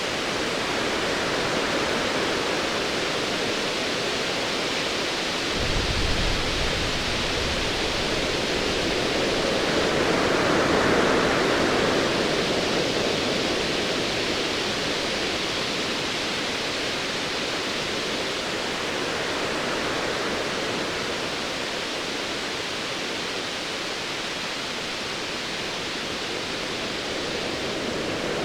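Ocean waves washing in a continuous hiss, one swelling loudest about ten to twelve seconds in. A low rumble of distant thunder comes in about five and a half seconds in and fades over a few seconds.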